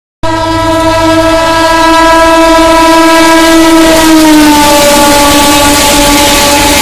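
Electric locomotive's horn sounding long and loud as the train approaches and passes, its pitch dropping about four seconds in as the locomotive goes by, over the rumble of the train on the rails. It cuts in abruptly just after the start.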